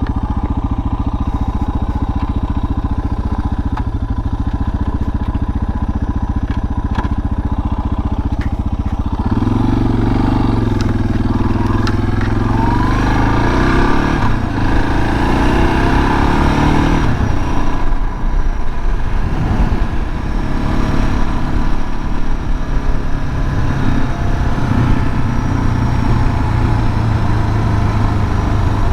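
Suzuki DR650's single-cylinder four-stroke engine running steadily at low speed, then about nine seconds in opening up and accelerating, its pitch rising through the gears, and carrying on at varying road speed.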